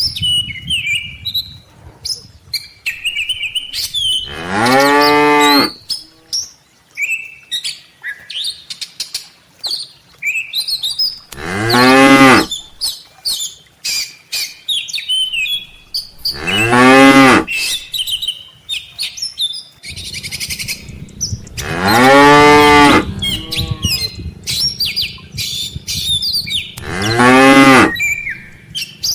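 Cattle mooing: five long, loud moos, roughly one every five seconds. Short high chirps, likely small birds, sound between the moos.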